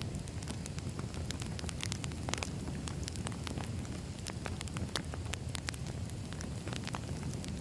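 Burning firewood crackling and popping in irregular sharp snaps over a steady low rumble of the fire.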